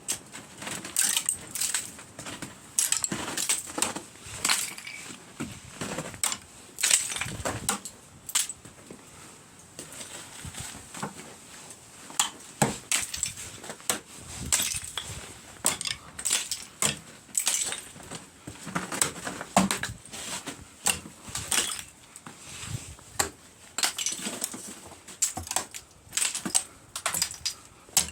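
Icicles being knocked down and breaking, a long run of sharp, irregular cracks and glassy clinks as the ice snaps and shatters.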